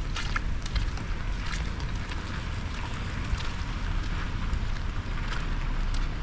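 Steady hiss of falling rain with a low rumble of wind on the microphone, and a few scattered footsteps.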